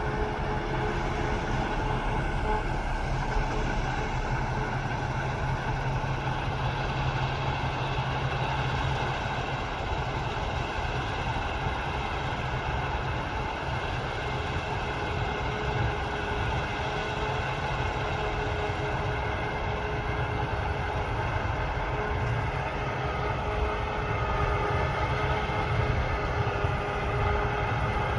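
Heavy harvest machinery running steadily: the diesel engines and drives of combine harvesters and tractors working a wheat field. It is a continuous low drone with several steady whining tones on top, unbroken throughout.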